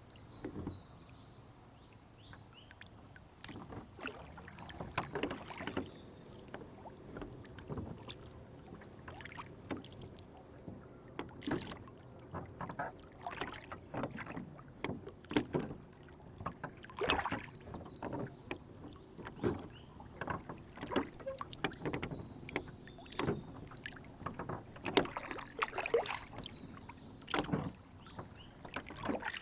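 Wooden rowboat on a lake: irregular knocks and splashes of oars and water slapping against the hull, over a steady low lapping of the water.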